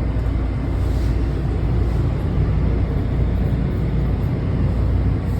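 Washington Metro train running with a steady low rumble.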